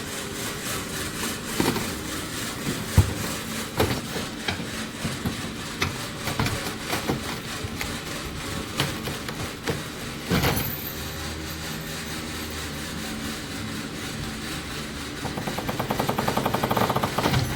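Compact tractor's diesel engine running under work, with scattered metal clanks and knocks of demolition. Near the end a fast, even rattling comes in and grows louder.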